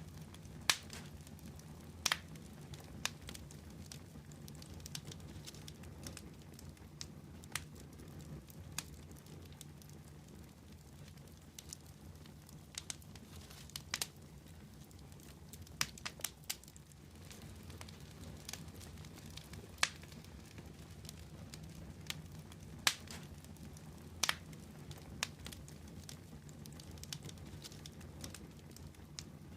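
Fire crackling: irregular sharp pops and snaps, a few louder than the rest, over a low steady rumble of the burning.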